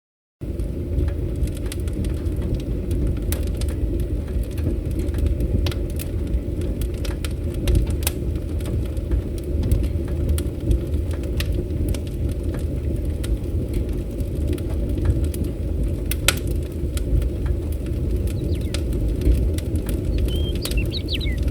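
Wood fire crackling: scattered sharp pops and snaps over a steady low rumble, cutting in just after a moment of silence at the start. A short bird chirp comes near the end.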